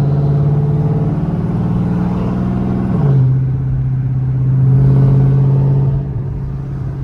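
Supercharged 5.7-litre Hemi V8 of a Dodge Charger R/T, with an aftermarket Kooks exhaust, running at low revs with a steady, deep rumble. Its pitch drops a little about three seconds in and then holds steady.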